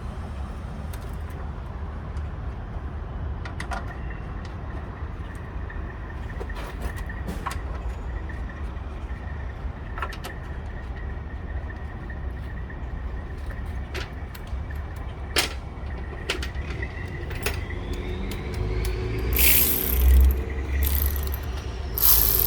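Scattered metallic clicks and clinks of hand tools as the radiator's top mount bolts are fitted, over a steady low rumble. Near the end come a few louder, harsher bursts of tool noise.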